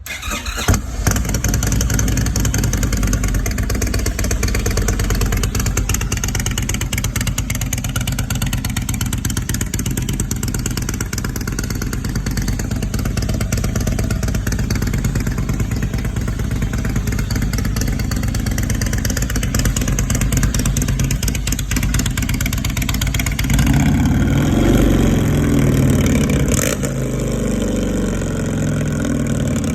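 Indian motorcycle V-twin through aftermarket slip-on mufflers: it catches right at the start and idles steadily, then is revved a few times near the end.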